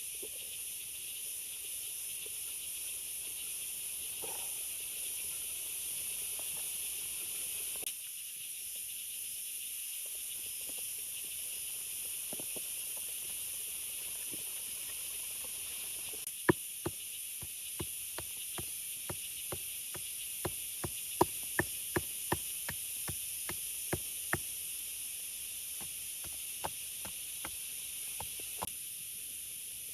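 Steady hiss of heavy rain falling. About halfway through comes a quick run of sharp knocks, two or three a second, lasting about eight seconds, with a few more near the end.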